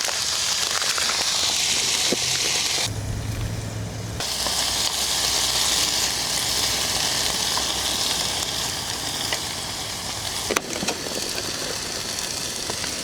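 Steady sizzling of food frying in a hot pan on a camp stove, briefly giving way to a low rumble about three seconds in.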